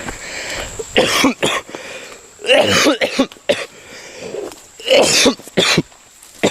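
A person coughing hard in three loud fits about a second and a half to two and a half seconds apart, each with a smaller cough or two after it.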